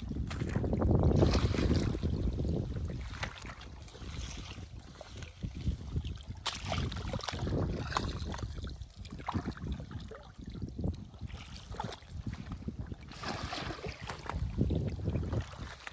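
Water sloshing and splashing, mixed with wind noise on the microphone, loudest in the first two seconds and swelling again near the end.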